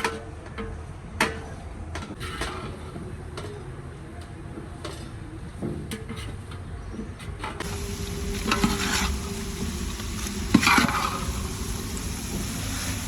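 Stirring and clinking of a utensil in a cooking pot, then a few seconds in a steady sizzling hiss sets in as food fries in hot oil, with louder scraping or stirring within it.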